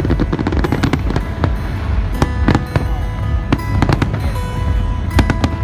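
Fireworks display: aerial shells bursting in a rapid, irregular series of sharp cracks and bangs over a deep rumble, with the show's music playing loudly underneath.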